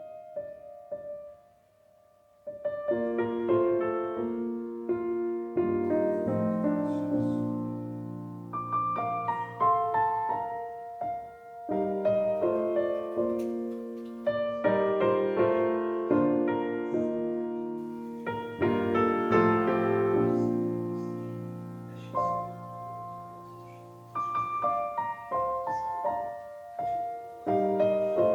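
Gentle solo piano background music. The first two seconds are nearly quiet, then the piece comes in with chords and melody notes that ring and fade.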